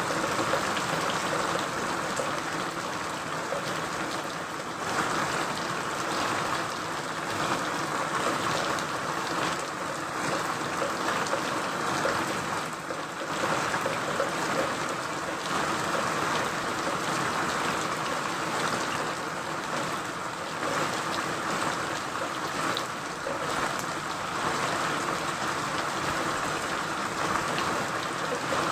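Steady rain falling, a dense even hiss of water with many small drop ticks and gentle swells in level.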